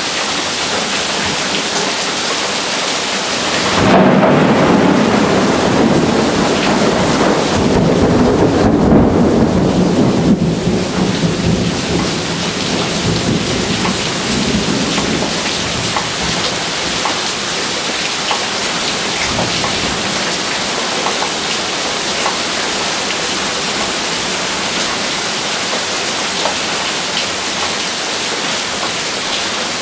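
Heavy rain falling steadily, with a long roll of thunder that starts suddenly about four seconds in and rumbles on for around ten seconds before fading back into the rain.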